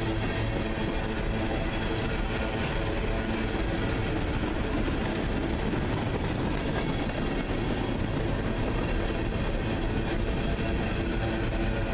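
Freight train rolling past with a steady rumble of cars on the rails, with steady engine tones underneath.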